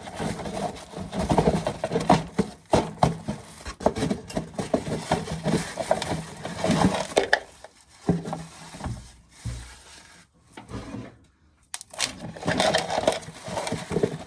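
Irregular rattling, scraping and knocking of dry corn being handled, ears and loose kernels. There is a lull about ten seconds in before it picks up again.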